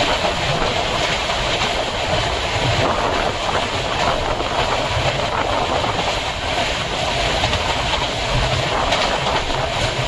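Passenger train running along the line, heard from on board: a steady rumble and rush of wheels on rails.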